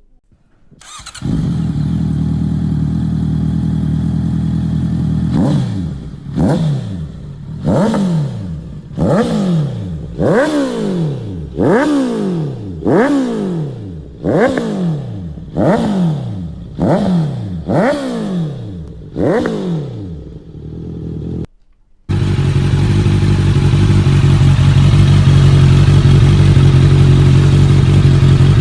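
Honda CBR650F inline-four through an aftermarket exhaust, idling, then blipped about once a second in a long run of quick revs that each rise and fall back to idle. After an abrupt break, a louder steady engine note follows.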